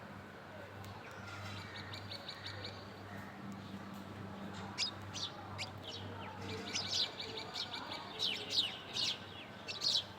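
Small birds chirping: a buzzy trill early on, then a busy run of short, quick, high chirps that comes thicker in the second half.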